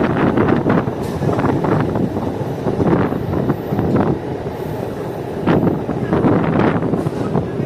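MEMU electric passenger train running along the track: a steady rumble with uneven rail clatter.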